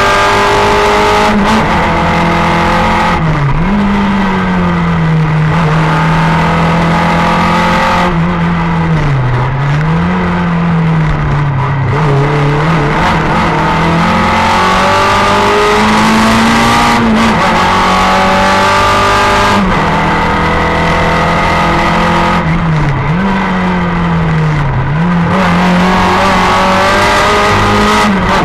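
Simca 1000 rally car's rear-mounted four-cylinder engine running hard at high revs, heard from inside the cabin. The engine note drops sharply and climbs again several times as the car is driven flat out through the stage.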